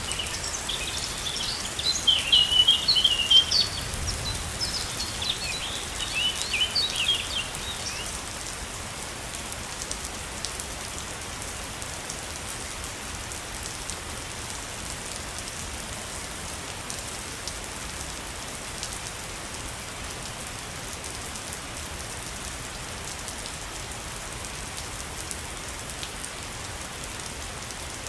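A waterfall's steady rush of falling water, with songbirds chirping rapidly over it for the first eight seconds or so, after which only the water is heard.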